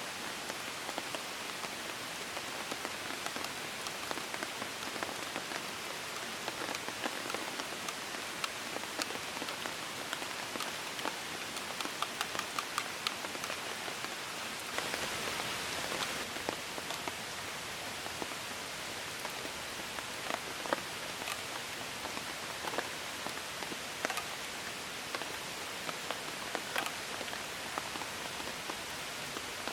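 Steady rain, with single large drops knocking sharply here and there; the rain briefly swells louder about halfway through.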